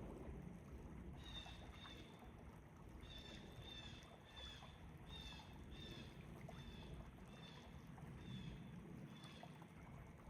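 A bird calling a long series of short, high notes, each slurring downward, repeated evenly about once every half to three-quarters of a second from about a second in, over a faint low background rumble.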